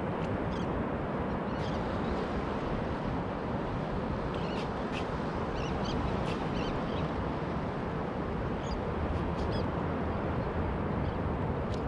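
Scattered short, high bird chirps at irregular intervals over a steady wash of wind and water noise.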